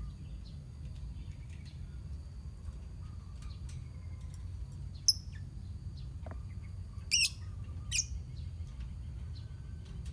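A colony of lovebirds chirping, with scattered faint chirps and three loud, shrill calls in the middle, over a steady low rumble.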